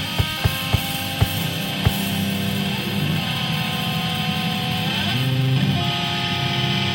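Live band playing with electric guitar and bass: a handful of sharp hits in the first two seconds, then held guitar notes over low bass notes, with a note sliding in pitch about five seconds in.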